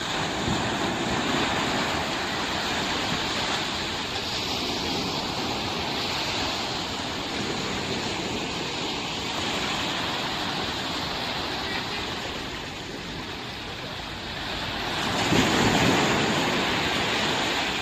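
Ocean waves breaking, with wind: a continuous rushing surf that swells louder about a second in and again near the end, as larger waves come in.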